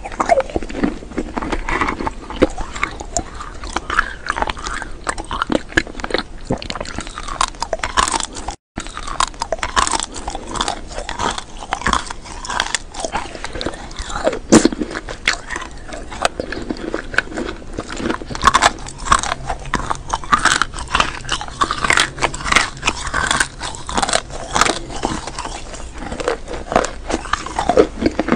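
Close-miked chewing and crunching of small pastel candy beads: a dense, irregular run of small crunching clicks, with a brief cut to silence about a third of the way in.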